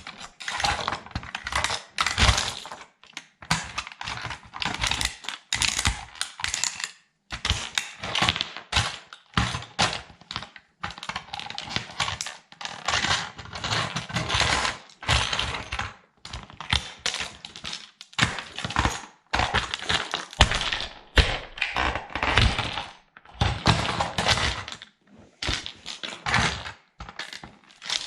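Toy military truck being crushed under a sandal's sole, cracking and crunching in rapid irregular bursts with brief pauses.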